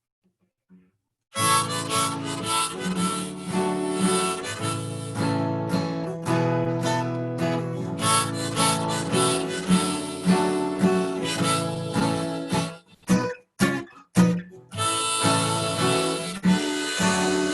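Harmonica playing over acoustic guitar: the instrumental intro to a song, starting about a second and a half in, with two brief breaks near the end.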